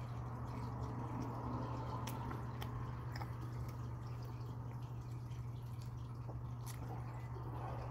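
Close-up wet chewing of a soft omelette bun with a few small, sharp mouth clicks, over a steady low hum.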